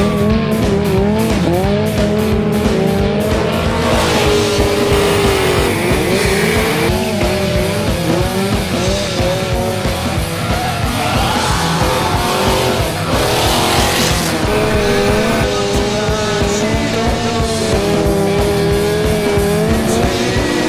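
Engines revving up and down and tyres squealing through drifts, over rock background music.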